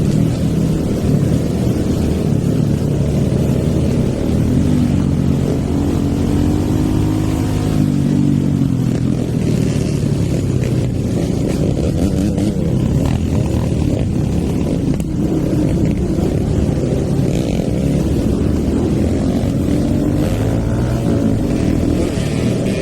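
Hero Eco 150 single-cylinder motorcycle engine with a stage 2 tune, running under way. Its pitch rises and falls repeatedly as the rider works the throttle.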